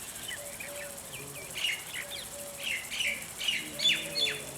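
Small birds chirping, many short downward-sweeping chirps in quick succession, growing busier and louder about a second and a half in.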